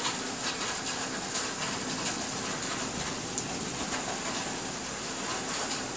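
Steady hiss of traffic on a wet, waterlogged street, tyres running through standing water, with a faint steady hum underneath.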